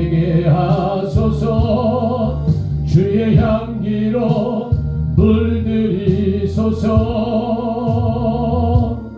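Korean worship song: singing over a steady instrumental backing with a strong bass line.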